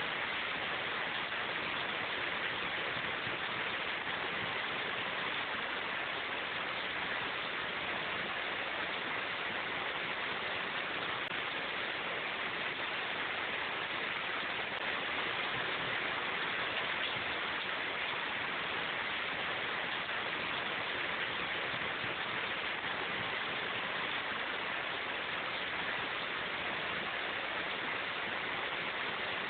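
Steady rain falling in a forest, an even hiss that stays the same throughout, with no single drops or other events standing out.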